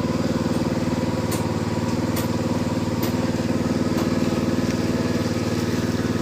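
A small engine running steadily at an even speed, with a few faint sharp ticks over it.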